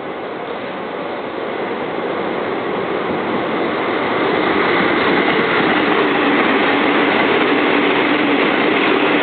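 Meitetsu electric train passing over a level crossing. Its running noise grows louder over the first four seconds, then holds steady and loud.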